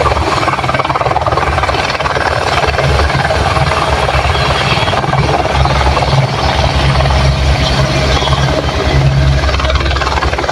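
Helicopter running, a loud, steady sound of rotor and engine.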